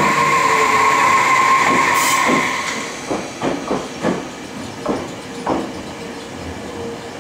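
Tobu 60000 series electric train rolling slowly past the platform. A steady high squeal fades after about two and a half seconds, with a short hiss of air about two seconds in. After that the wheels knock over rail joints at uneven intervals.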